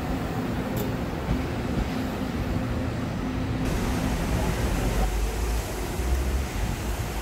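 Electric commuter train pulling away from the platform, the steady hum of its motors dying out about five seconds in and leaving a low rumble under a steady rush of noise.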